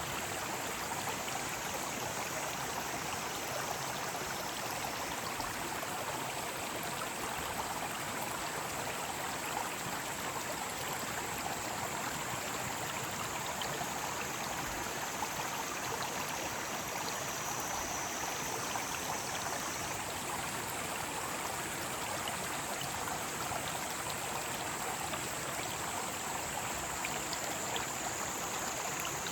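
Mountain stream rushing steadily over rocks, an even wash of water noise. Summer cicadas add a thin high drone above it that comes and goes.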